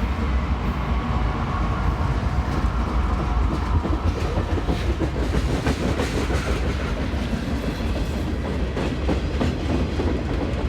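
Freight train cars rolling past, wheels clacking over rail joints over a steady low rumble, the clacks coming thicker about halfway through.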